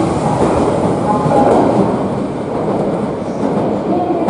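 Electric commuter train running alongside a station platform, a steady rumble of wheels and motors.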